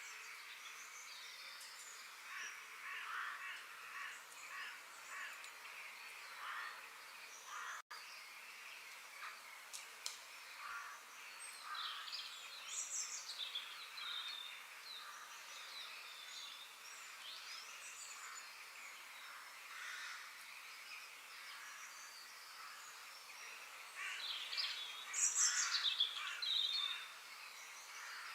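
Several birds singing and calling, with short overlapping chirps and warbles, over a faint steady hiss. A louder flurry of calls comes near the end, and the sound drops out for an instant about a third of the way through.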